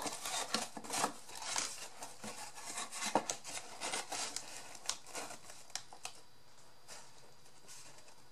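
Small cardboard and paper craft pieces being handled and fitted together: irregular rustles, scrapes and light taps that die down after about six seconds.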